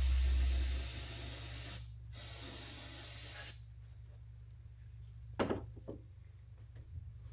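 Aerosol can of brake cleaner spraying onto an engine block in a steady hiss, with a brief break about two seconds in, then stopping. A couple of short knocks follow a couple of seconds later.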